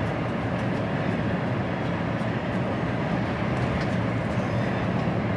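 Steady running noise of an HGV lorry on the move, heard inside the cab: diesel engine and road rumble.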